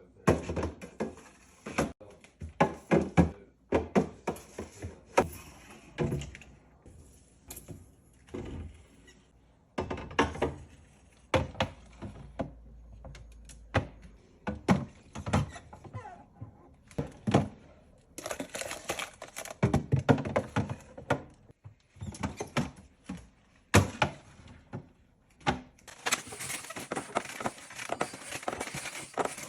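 Food packages, jars and containers being moved around and set down on refrigerator shelves: irregular clunks, knocks and small rattles, with a denser steady noise over the last few seconds.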